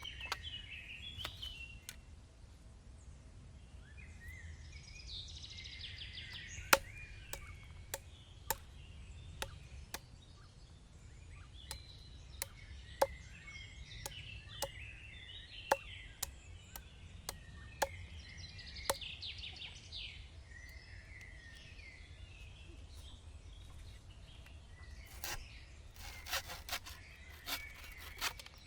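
Birds chirping and singing in several short spells, with sharp single clicks or knocks about once a second through the middle, and a quick run of scraping strokes near the end.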